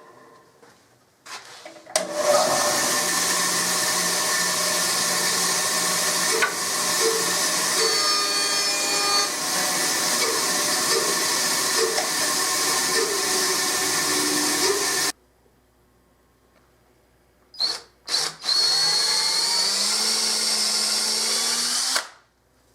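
Power tool running loudly in shop work, stopping abruptly about fifteen seconds in; a second, shorter run near the end rises in pitch as it goes.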